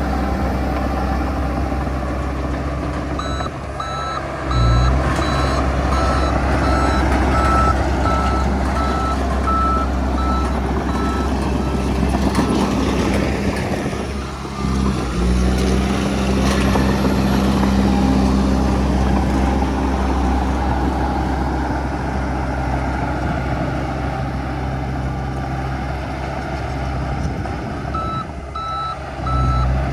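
Heavy diesel machinery running steadily while a reversing alarm beeps over it in a regular repeating pattern; the beeping stops about halfway through and starts again near the end.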